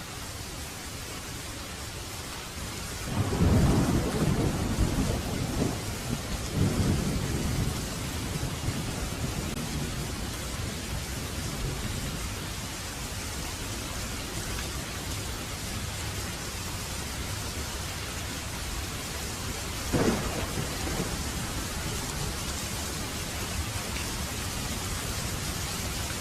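Heavy rain falling steadily in a thunderstorm, with a long rolling thunder rumble about three seconds in that dies away over several seconds, and a short, sharp thunder crack near the end.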